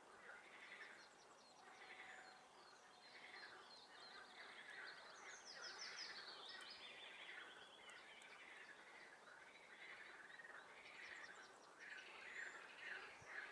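Faint chorus of swamp frogs calling over and over, roughly once a second, with songbirds trilling above them in the middle and again near the end.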